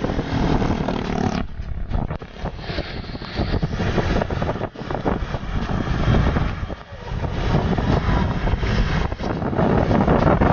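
A truck's engine running amid a steady hiss of heavy rain and wet road noise. An engine hum is clear for the first second and a half, and the hiss dips briefly a few times.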